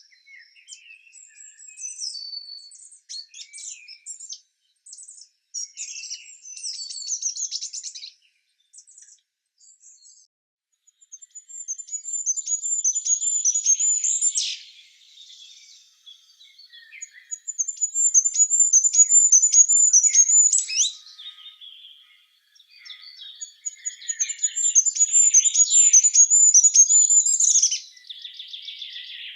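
Songbirds singing: scattered short high chirps at first, then three long songs, each a quick run of the same high note repeated for several seconds before breaking off.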